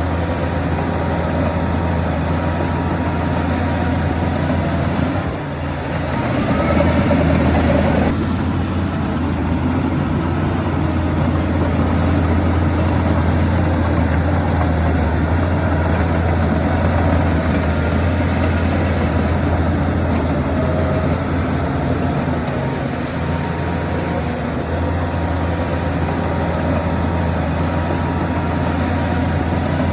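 Heavy diesel earthmoving machinery running steadily with a deep, even drone, briefly dipping and then surging louder about six seconds in.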